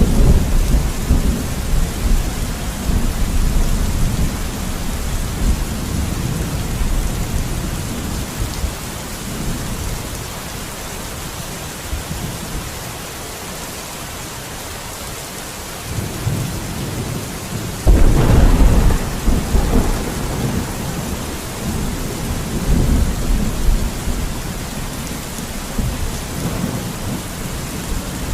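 Steady rain with thunder: a low rumble that fades away over the first several seconds, then a sudden thunderclap about eighteen seconds in that rolls on for several seconds.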